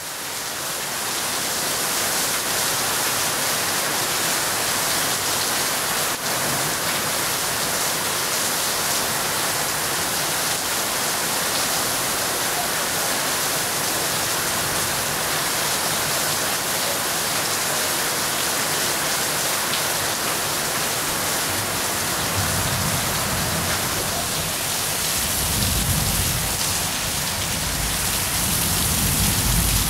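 Steady rain falling, a dense even hiss that fades in at the start. A low rumble joins it about two-thirds of the way through.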